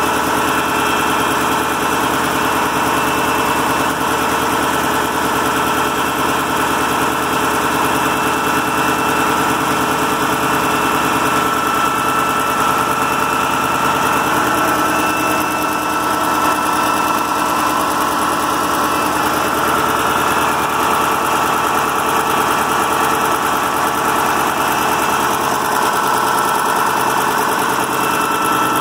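Freshly overhauled KAMAZ Euro-5 truck diesel engine running steadily at idle after its first start-up.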